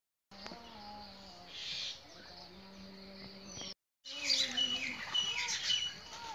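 Birds chirping and calling, with short high notes and quick sliding calls over a faint steady hum. The sound drops out for a moment just before the four-second mark, then the chirping comes back louder and busier.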